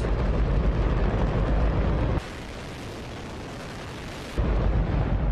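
Hydrogen-oxygen rocket engine firing, a loud continuous rush of noise. About two seconds in it drops suddenly to a quieter, thinner rush for about two seconds, then the full loud noise returns just as suddenly.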